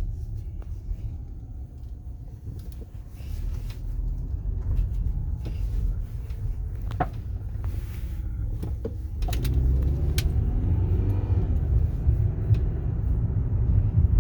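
Cabin road noise of a 2015 Toyota Camry SE on the move, with a few sharp pops or clunks from under the car, the clearest about seven seconds in. Its rumble grows louder about nine seconds in. The pops come with the car's weight shift under braking and accelerating and over a slight bump, from the centre or passenger side, a clunk that mechanics have not yet traced.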